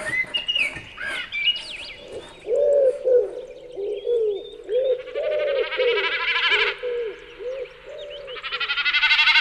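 Birds calling: assorted chirps and short whistles at first, then a long run of low, evenly repeated notes about two or three a second. Loud, very rapid high trills come in twice, about five seconds in and again near the end.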